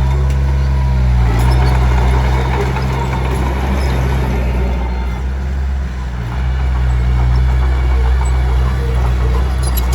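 Komatsu D21P bulldozer's diesel engine running steadily. About a second in its note dips and a rough, grinding noise rises over it for several seconds, then the steady engine note returns.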